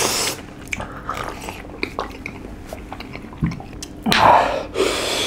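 Close-miked chewing and eating of spicy noodles and fried chicken, with scattered small wet clicks. About four seconds in comes a louder breathy rush.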